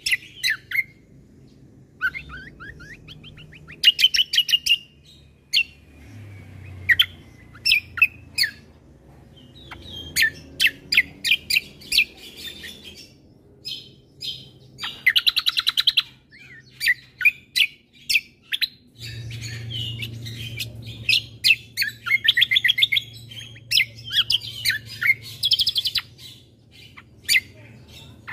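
Kecial kombo (cucak kombo) songbird singing: a busy run of sharp chirps and fast trilled phrases, in quick bursts with short gaps, over a faint low hum.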